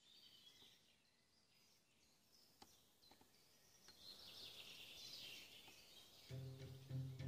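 Faint forest ambience with birds chirping and a few small clicks. About six seconds in, music starts.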